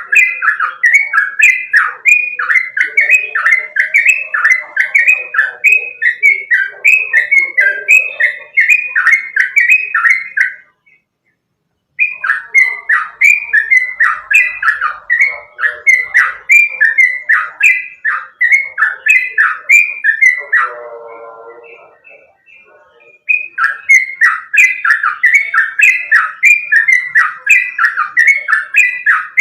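Yellow-vented bulbul (trucukan) singing: a fast, steady run of repeated clear whistled notes, two or three a second. It breaks off for about a second around ten seconds in. Around twenty seconds in it gives a lower, buzzy note and fades, and the song picks up again a couple of seconds later.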